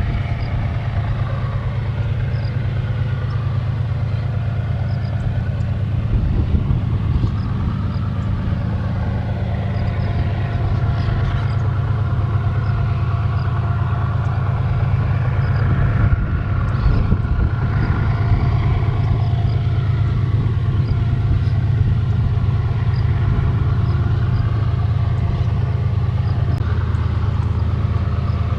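Heavy iron-ore freight train hauled by diesel-electric locomotives, running with a steady low engine drone.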